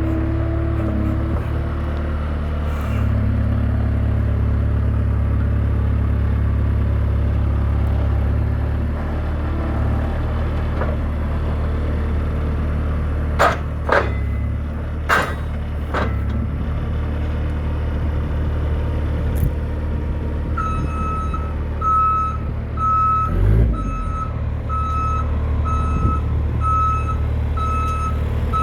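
New Holland L213 skid steer's diesel engine running steadily, with a few sharp clanks or squeaks near the middle. About two-thirds of the way through, its reversing alarm starts beeping at an even pace as the machine backs up.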